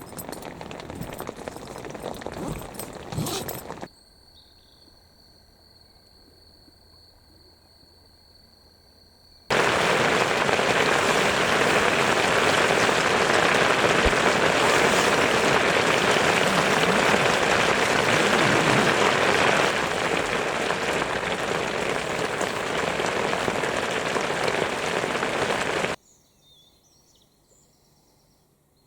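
Steady heavy rain, an even hiss, sets in suddenly about ten seconds in. It eases slightly around twenty seconds and stops abruptly near the end. Before it comes a short patter of drops and then a quiet stretch with a faint high steady tone.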